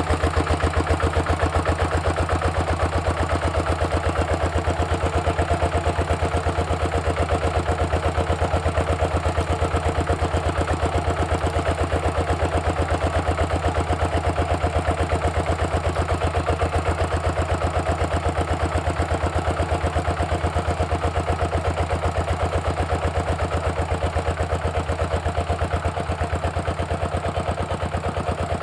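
Single-cylinder diesel engine of a walking tractor running steadily, with an even, rapid chugging pulse and no change in speed.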